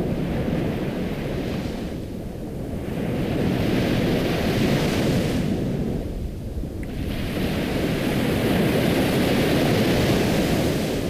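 Ocean surf: waves rolling in and washing back, three swelling rushes of hiss that rise and fall over a few seconds each.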